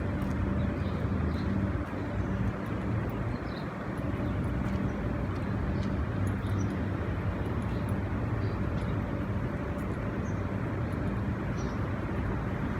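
Steady motor-vehicle engine hum with road and traffic noise.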